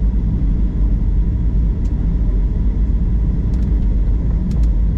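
Steady low rumble of an airliner cabin from its engines and airflow, with a few faint light ticks about halfway through and near the end.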